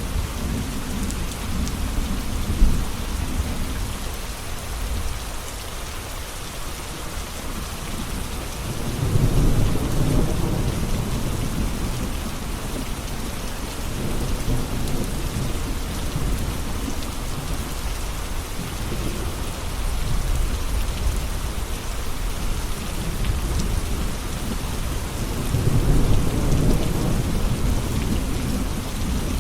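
Steady rain with rolls of distant thunder, which swell about a third of the way in, briefly around two-thirds, and again near the end.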